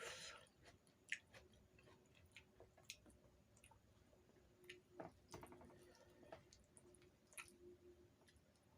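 Soft, quiet chewing of puri with dum aloo: wet mouth smacks and scattered sharp clicks, the loudest about a second in.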